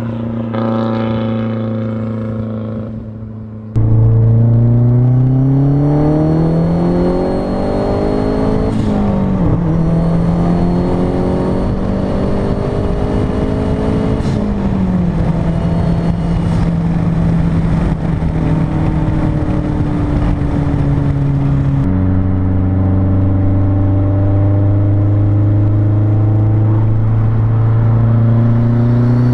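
Straight-piped exhaust of a Mazdaspeed3's turbocharged 2.3-litre four-cylinder under way. It jumps abruptly louder about four seconds in and rises in pitch under acceleration, drops with a shift, and then drones at a steady pitch. Near the end it falls abruptly to a lower note that creeps slowly upward.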